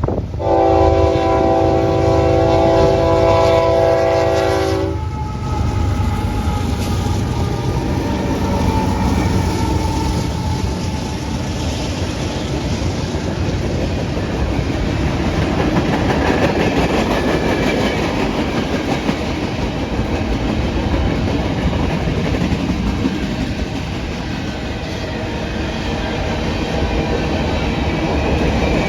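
A freight train's locomotive horn sounds one long chord of several tones for about four and a half seconds, starting about half a second in. Then the locomotives and the manifest's cars roll past with a steady rumble and clickety-clack of wheels on rail joints.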